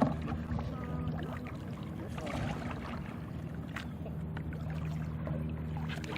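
Kayak on the water with light water movement and a few faint knocks against the hull, over a steady low hum.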